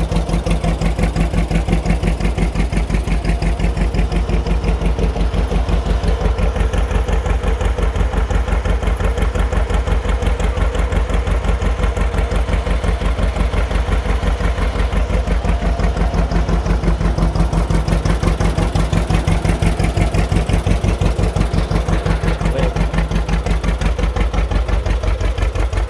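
John Deere two-cylinder tractor engine running with a steady, even putting beat.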